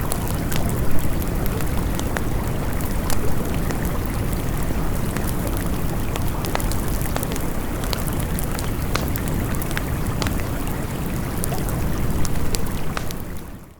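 Campfire crackling with sharp pops over the steady rush of a flowing stream; it all fades out at the very end.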